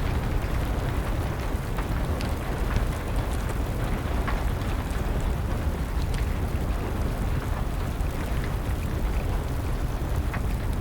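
Wood fire crackling, with scattered sharp pops over steady rain and a low rumble.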